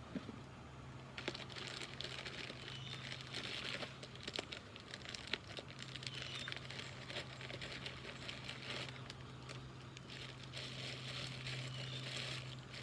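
Crinkling and rustling of handled packaging or foam, a dense run of small crackles, over a steady low hum.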